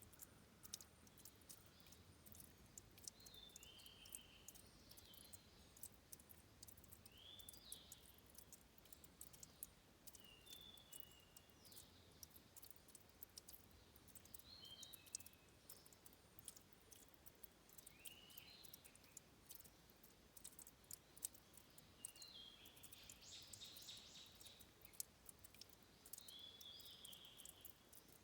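Faint trickle of water at a stream's source, with many tiny clicking drips. A small bird sings a short, high chirping phrase every few seconds.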